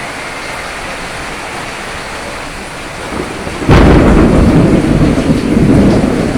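Steady rain, then a loud clap of thunder breaks about two-thirds of the way in and rumbles on over the rain.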